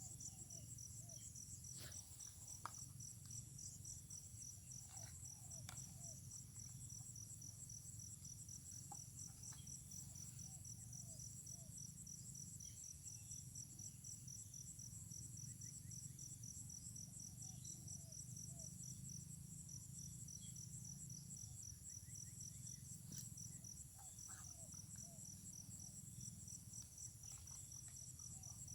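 Faint, steady chorus of insects, several shrill high-pitched trills layered and pulsing without a break, with faint short chirps scattered throughout and a low rumble underneath.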